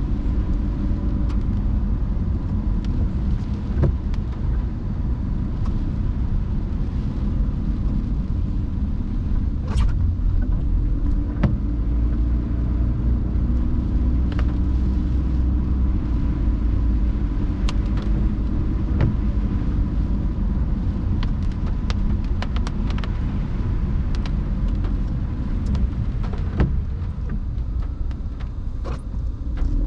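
A car driving in the rain: a steady low rumble of road and tyre noise, with scattered sharp ticks throughout.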